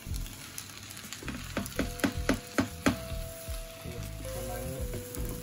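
Spaghetti and sauce sizzling in a hot stainless wok while being stirred and tossed with a wooden spatula. About a third of the way in comes a quick run of about five scraping knocks, as a bowl of food is scraped out into the wok.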